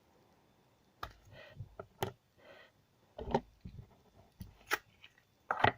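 Slime being squeezed and worked in the hands, giving a scatter of sharp clicks and small pops, about six in a few seconds.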